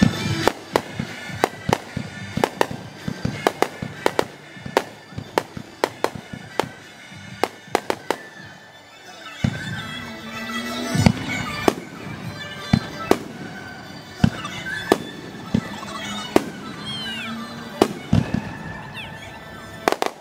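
Aerial firework shells bursting in quick succession: dozens of sharp bangs through the whole stretch, played back at double speed.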